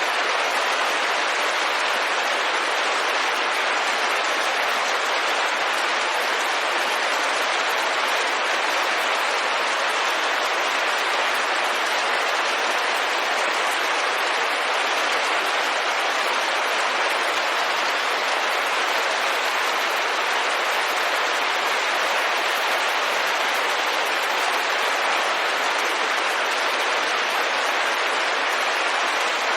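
Steady rain falling on a window, a dense, even hiss of drops with no distinct individual hits or changes.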